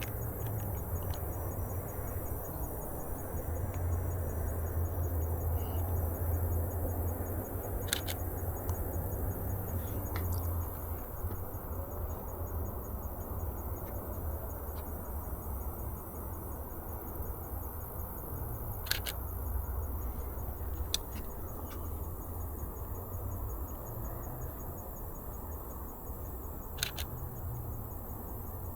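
Canon EOS RP shutter clicking about five times, spaced several seconds apart, over a steady outdoor bed of insects trilling high and a low rumble.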